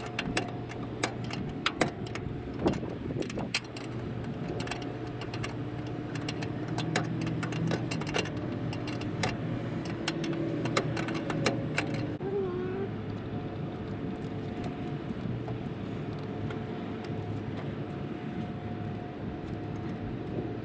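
Scattered sharp metallic clicks and clinks of tools and parts being handled, over a steady low hum; the clicks stop about two thirds of the way through, leaving only the hum.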